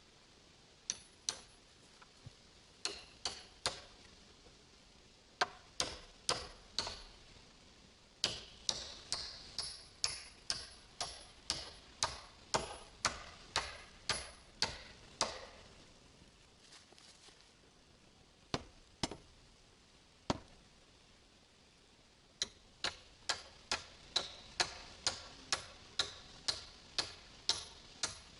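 Hammer blows with a short metallic ring, coming in runs of about two strikes a second separated by short pauses, as when driving nails.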